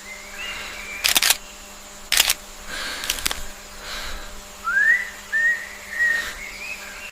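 Whistling: one rising whistled note at the start and four short rising whistles near the end, broken by three sharp, noisy bursts about a second apart.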